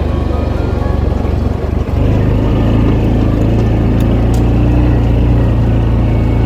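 A motor vehicle's engine running steadily, with a short dip in level about two seconds in, after which it runs a little louder.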